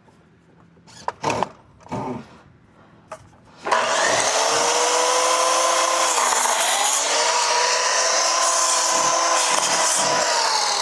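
A few light clicks, then about four seconds in a small electric power saw starts up and cuts through a composite decking board. Its motor pitch dips under load a couple of seconds into the cut and recovers, the blade working through a board that is a little too thick for this saw.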